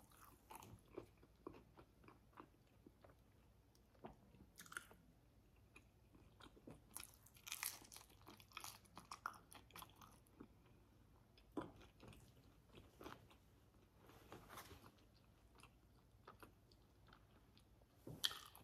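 A person chewing and biting fried food close to the microphone: faint, scattered crunches and mouth sounds, with a few louder crunches in the middle and near the end.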